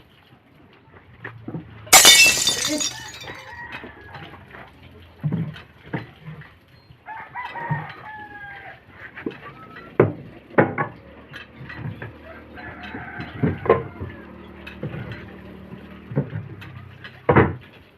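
Scattered knocks and clanks of hands-on metalwork, with one loud, ringing clang about two seconds in. A rooster crows once near the middle.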